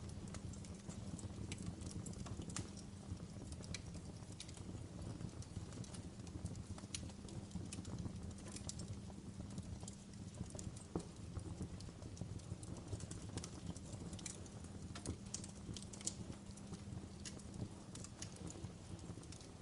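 Wood fire in a fireplace crackling: irregular sharp snaps and pops, several a second, over a steady low rumble, with a couple of louder pops midway.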